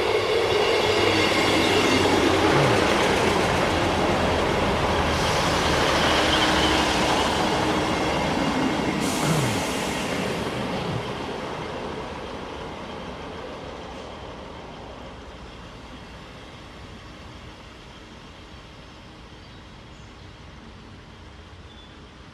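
Class 158 diesel multiple unit running past, loud for about ten seconds with some wheel squeal, then fading away as it leaves.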